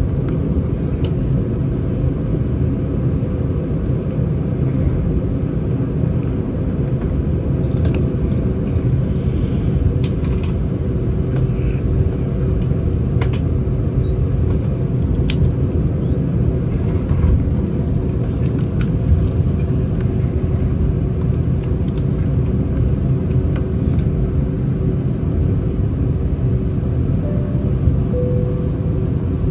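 Airbus A319 cabin ambience: a loud, steady low rumble from the CFM56 engines and the airframe, with a faint steady hum and scattered light ticks.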